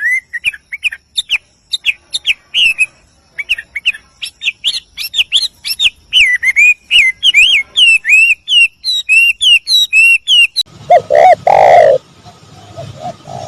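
A songbird gives a fast run of short whistled chirps. About ten seconds in, the recording changes to a different bird with lower-pitched repeated calls over a background hiss.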